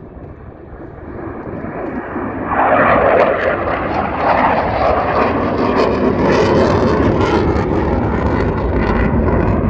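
Airplane flying past with loud engine noise that builds over the first couple of seconds, swells sharply about two and a half seconds in, and then stays loud.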